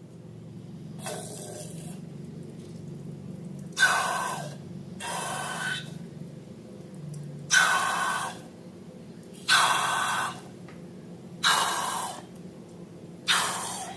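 Wet slime being squished and worked by hand, in short squelching bursts about every two seconds, over a steady low hum.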